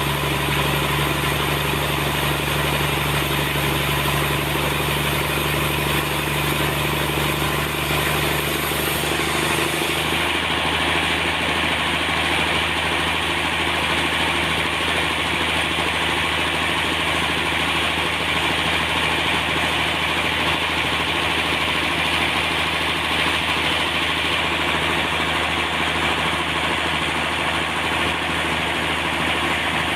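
Sawmill machinery running steadily, an engine-like drone with a change in its sound about ten seconds in.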